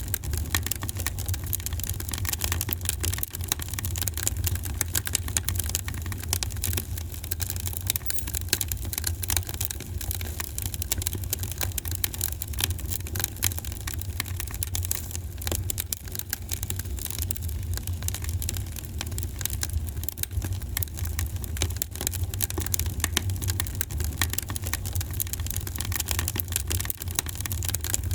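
Fireplace fire crackling: dense, irregular snaps and pops over a steady low rumble.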